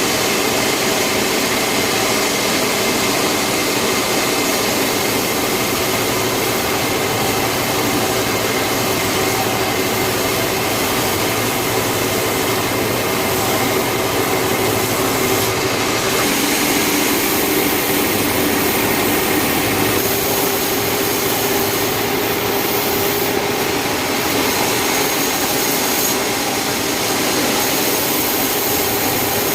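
Sawmill saw machinery running steadily: a loud, unbroken machine noise with a constant hum.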